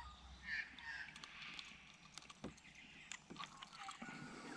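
Quiet riverside ambience: faint short bird calls, with a few light clicks.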